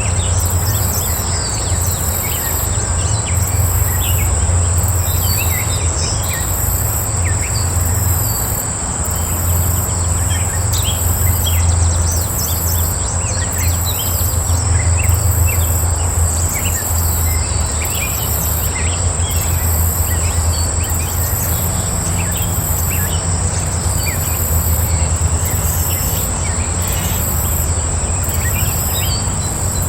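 Outdoor dawn-chorus-style ambience: many small birds chirping in short, scattered calls over a steady high insect drone. An even higher insect buzz pulses on and off about once or twice a second, and a constant low rumble runs underneath.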